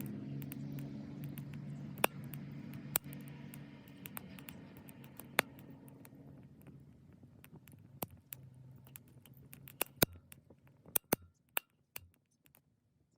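Small wood fire in a Sierra stove crackling, with scattered sharp pops and snaps that come more often near the end. Under it, a low hum fades out over the first half.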